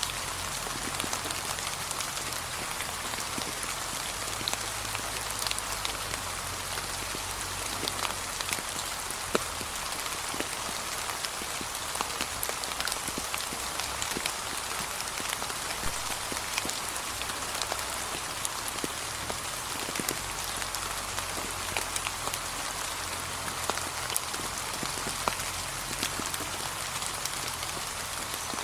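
Steady light rain falling on a leaf-covered path, a constant hiss with many scattered individual drop taps.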